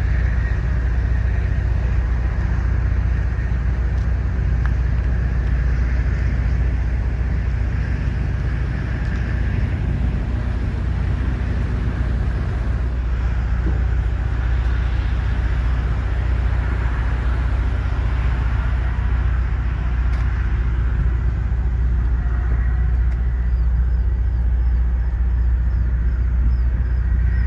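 Steady low vehicle engine rumble, such as a heavy diesel truck idling, holding an even level throughout.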